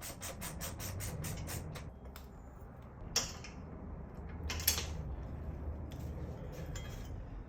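A quick, even run of clicks, about six a second, for the first two seconds, then two sharp knocks about a second and a half apart, amid faint scraping.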